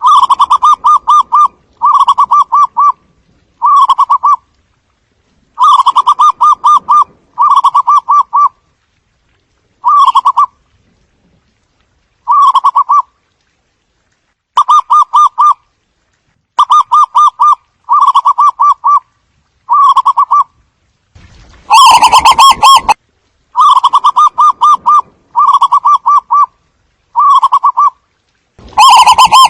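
Zebra dove cooing in a lure recording: repeated short bouts of rapid, staccato pulsed coos with gaps of silence between them. A couple of bouts late on are louder and distorted.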